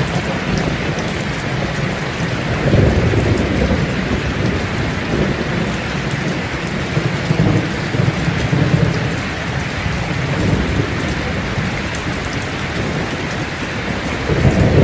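Steady heavy rain with thunder rumbling low, swelling a few seconds in, again around the middle and once more near the end.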